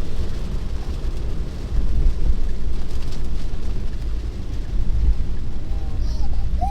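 Steady rumble of heavy rain and tyres on a wet road, heard from inside a car's cabin.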